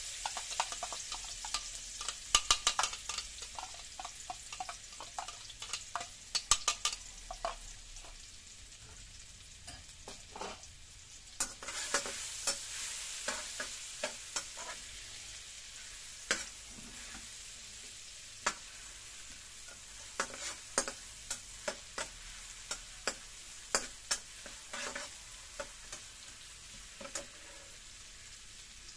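A ground shallot, garlic and dried chilli paste sizzling in hot oil in a wok, frying until fragrant, with a steady hiss. A metal spatula stirs it, scraping and clicking against the wok in bursts.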